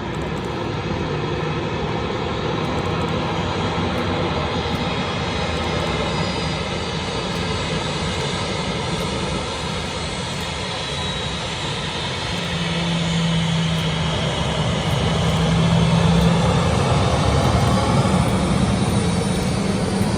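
Airliner engines running with a steady noise that grows louder in the second half, with a low steady tone coming in about twelve seconds in.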